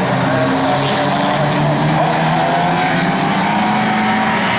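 Euro Rod racing car engines running at speed during a heat, loud and steady, with one engine's pitch climbing from about halfway through.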